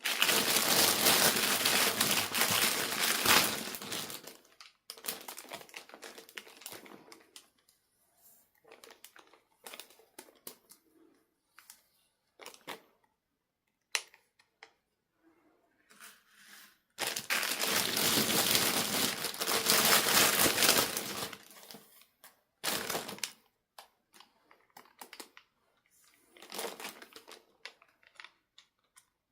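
Packaging being crinkled and torn open by hand, in two long rustling bursts, one at the start and one about halfway through, with short crackles and clicks in between.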